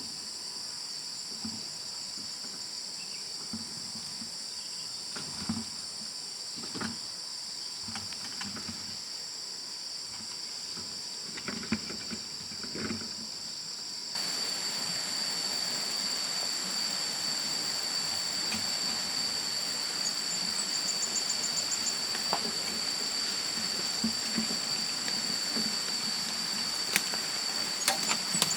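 Insects, crickets or cicadas, chirring steadily in two high-pitched bands, with short trilled pulses a few times in the second half. About halfway through, a louder steady hiss starts under them. Scattered soft knocks sound in the first half.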